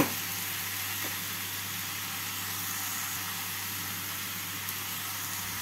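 Chopped snake gourd frying in mustard oil in a kadai, a steady sizzle with no stirring.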